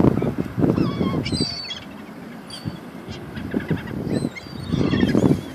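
A flock of seagulls calling in short, repeated squawks over a low rumbling noise that swells near the start and again near the end.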